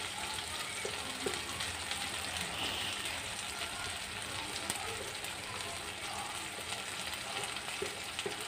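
Onions and ginger-garlic paste frying in oil in a metal karahi: a steady, gentle sizzle, with a few light clicks.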